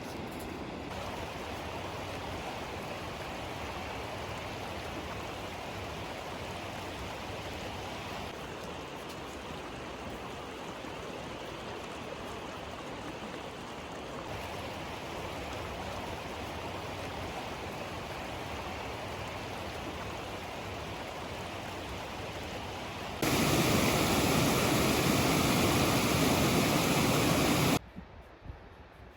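Steady rushing noise of running water. About 23 seconds in, it gives way to a much louder, denser rush that lasts about five seconds and then cuts off abruptly to a quieter background.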